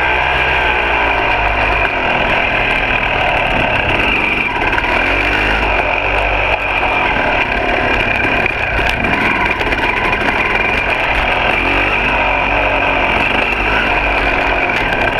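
Single-cylinder two-stroke engine of a 2006 KTM 300 XC dirt bike running on the trail, its pitch rising and falling as the throttle is opened and eased off.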